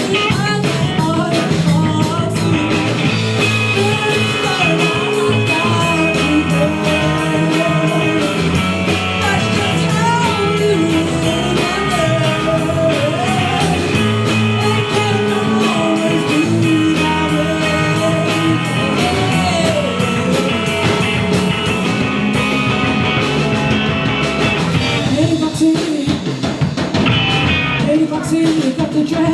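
Live rock band playing: electric guitars, bass and drum kit, with a vocal or lead line bending in pitch above them.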